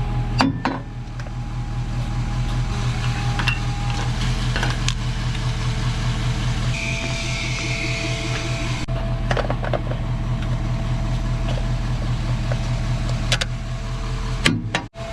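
Truck engine running steadily with a low hum, with a few sharp clicks along the way.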